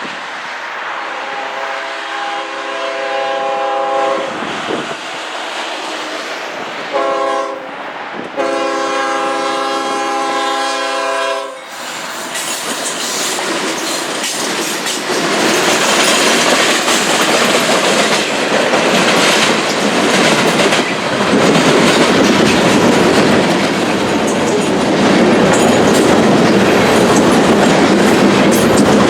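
Freight locomotive horn sounding a grade-crossing signal: a long blast, a short one about seven seconds in, and another long one that stops about eleven and a half seconds in. The train then rolls through the crossing at restricted speed, the loud rumble and clickety-clack of locomotives and freight cars building and holding.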